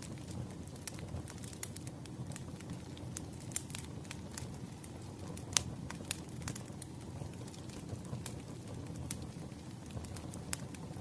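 Campfire burning: a steady low rumble of flames with irregular sharp crackles and pops of burning wood, one louder pop about five and a half seconds in.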